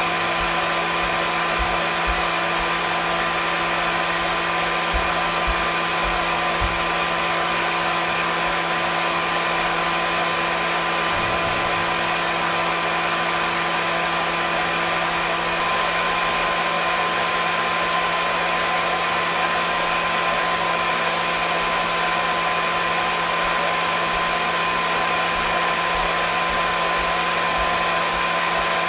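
Hair dryer running continuously: a steady rushing blow of air with a constant motor hum and whine, unchanging throughout.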